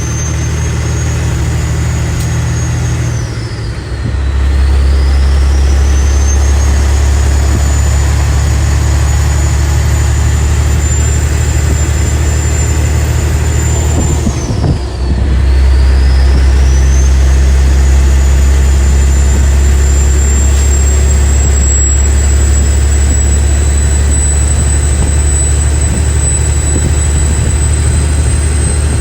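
Kenworth W900's 550-horsepower Detroit Diesel Series 60 12.7-litre straight-six diesel under load pulling 22 tons, with a loud high turbo whistle. The whistle climbs steadily, drops away at two gear shifts about 4 and 15 seconds in, and climbs again after each.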